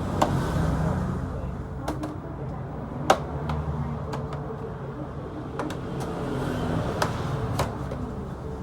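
A motorcycle engine running steadily, with sharp metallic clicks every second or so at irregular intervals.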